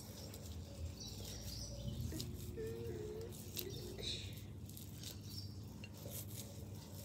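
Faint outdoor background: a few short distant bird chirps, with scattered light taps and patter.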